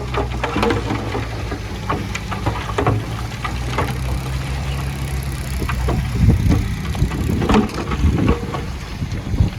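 Heavy earthmoving machine's diesel engine running steadily, with scattered knocks and clatter throughout; about six seconds in, the engine sound turns rougher and more uneven.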